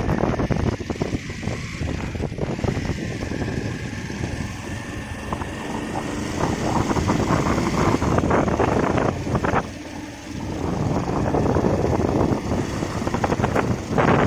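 Motorcycle ride heard from on the bike: engine and road noise under heavy wind buffeting on the microphone, with a brief drop in the rushing about ten seconds in.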